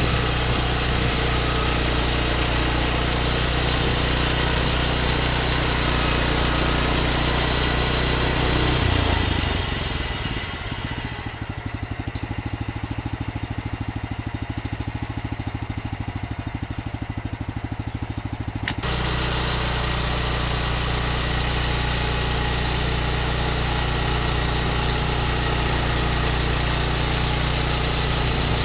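An engine running steadily at speed. About ten seconds in it eases down to a lower, evenly pulsing idle, then jumps back up suddenly about nine seconds later.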